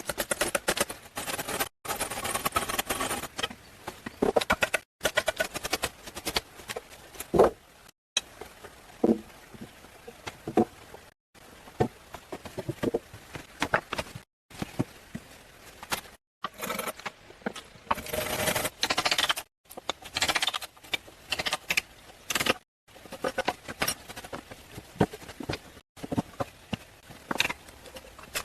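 Hand work on building materials in short cut-together snippets: rapid runs of clicks and scraping with sharper knocks, each snippet ending in a sudden cut to silence.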